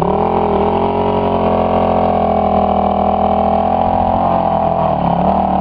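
Suzuki DR350 dirt bike's single-cylinder four-stroke engine running at a steady speed. Its pitch dips briefly just after the start, then holds nearly level with small wavers.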